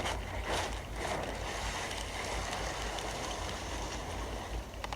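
Steady road and engine rushing from a dashcam video playing through a TV speaker, with a few faint clicks in the first second.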